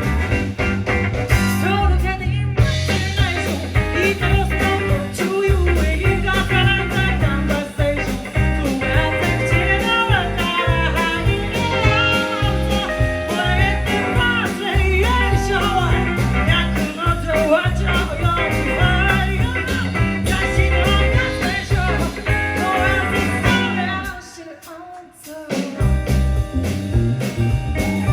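Live band playing a blues-rock song with singing over guitar, bass and drums. Near the end the band stops dead for about a second and a half, then comes back in.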